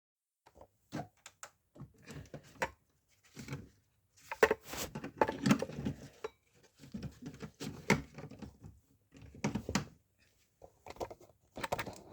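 Irregular clicks, taps and rustling of things being handled at close range, in bursts with short pauses.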